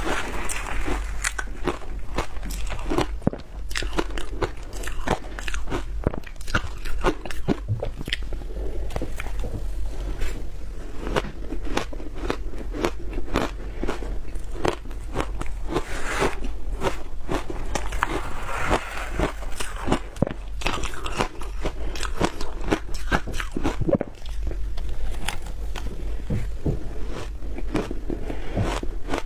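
Close-miked biting and crunching of frozen food, a dense run of sharp cracks and crunches mixed with chewing.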